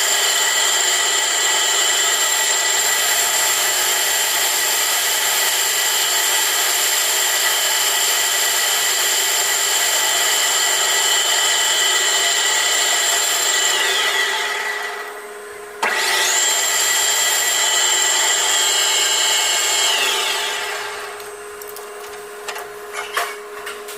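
Metal lathe running through a facing cut: a steady machine whine mixed with cutting noise. It winds down about fourteen seconds in, starts again with a click a couple of seconds later, then winds down again about twenty seconds in, leaving a low steady hum and a few light knocks.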